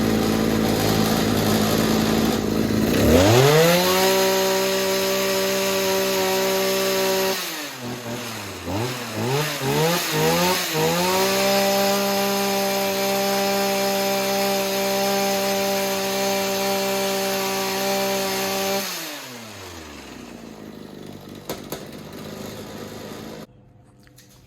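Shindaiwa hedge trimmer's two-stroke engine running after its fuel line and primer bulb repair. It goes from idle up to full throttle and holds steady for about four seconds, drops back with a few uneven blips, then holds full throttle again for about eight seconds before falling back to a quieter idle.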